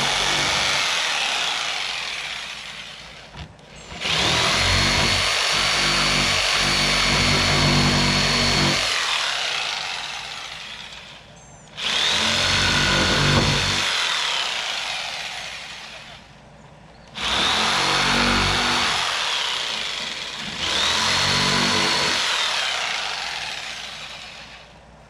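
Electric power saw cutting through wooden boards in several separate runs of a few seconds each, the motor whine starting sharply and dying away at the end of each cut. It is cutting out a door opening in a wooden cabinet.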